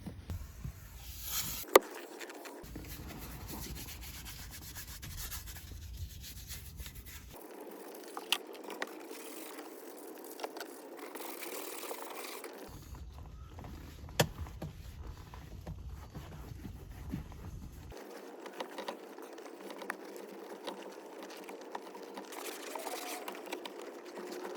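Rubbing and scraping as a car's dashboard and interior trim are scrubbed and wiped clean, with a few sharp clicks, the loudest about two seconds in and another about fourteen seconds in.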